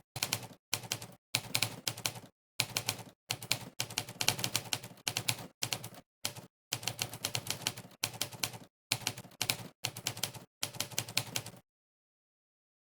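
Monkeytype's 'typewriter' keypress sound effect: a typewriter-key clack for each key pressed during fast typing, in quick runs of clicks with short gaps between them. It stops about a second before the end, leaving dead silence.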